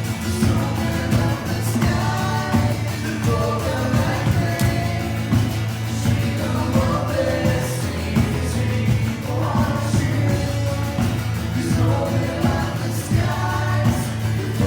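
Live church worship music: a band with bass and drums plays while voices sing.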